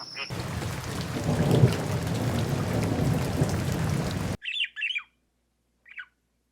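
Heavy rain with low thunder rumbling for about four seconds, cutting off abruptly. A bird then gives two quick squawks, and one more a second later.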